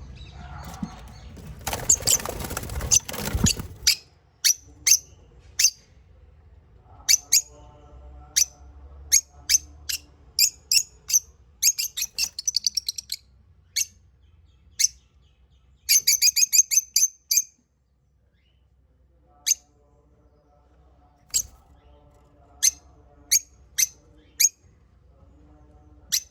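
Small pet parrots chirping: many short, sharp, high-pitched chirps, with quick runs of rapid chirps twice, over softer lower chatter. A loud noisy rustle fills the first few seconds.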